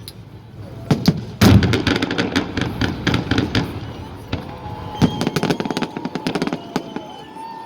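Festive fireworks salute: a single bang about a second in, then a dense run of crackling pops for about two seconds, with more bangs and crackles about five seconds in.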